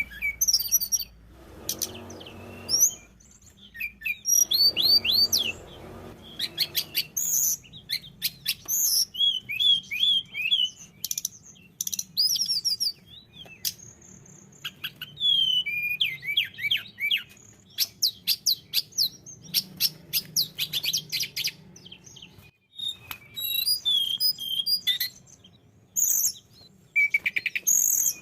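Tledekan gunung songbird singing in quick phrases of high, sliding chirps and trills, broken by short pauses. Twice near the start a dull rushing noise sounds under the song.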